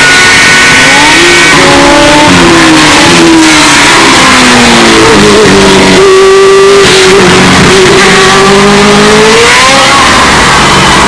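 Historic Formula 1 race car engines revving and passing by, the engine note rising and falling, loudest about six to seven seconds in. The sound is heavily boosted and distorted, pinned at full level throughout.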